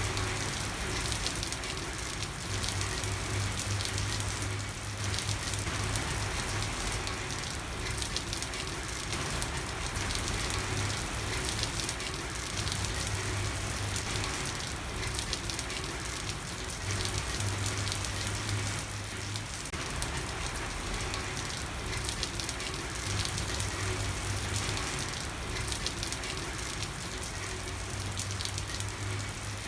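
Steady heavy rain falling on a street, a dense hiss of countless drops and splashes. A low hum comes and goes underneath every few seconds.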